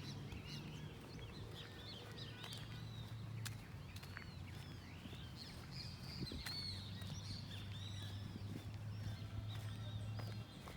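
Birds chirping outdoors: many short, quick calls overlapping, over a steady low hum.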